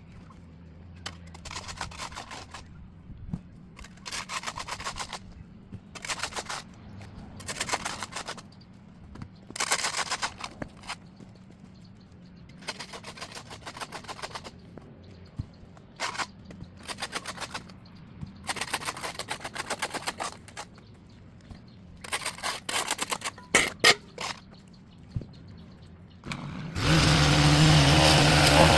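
A small gas engine being pull-started again and again, each pull a short rasping burst of rapid ticks, until it catches near the end and runs loud and steady.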